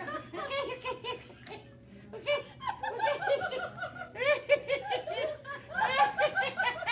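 People laughing hard in several bouts of quick, high-pitched "ha-ha" pulses.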